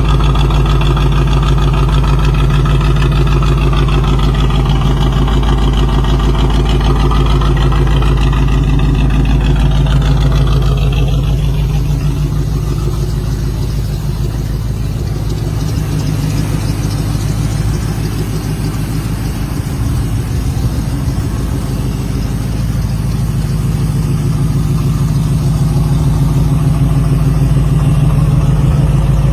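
Studebaker 289 V8 engine idling steadily.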